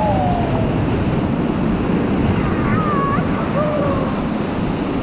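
Rushing river water, a steady loud wash, with wind buffeting the microphone.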